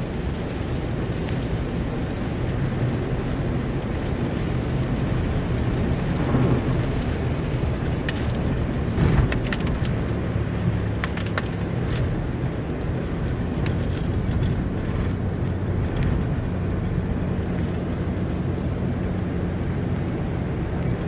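Vehicle driving on a road in the rain: steady engine hum and road and rain noise, with a scattering of sharp clicks about halfway through.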